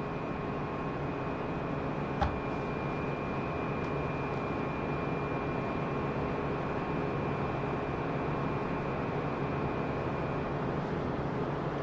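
Steady mechanical hum and hiss, like a fan or running machine, with a faint high whine that stops near the end and a single sharp click about two seconds in.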